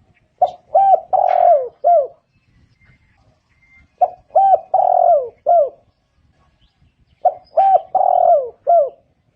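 Spotted dove cooing: three phrases about three and a half seconds apart, each a quick run of short hooked coos with one longer, falling coo near its end.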